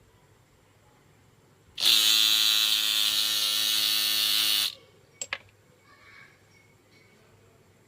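Small electric motor buzzing at a steady speed for about three seconds, then switched off, followed by two sharp clicks.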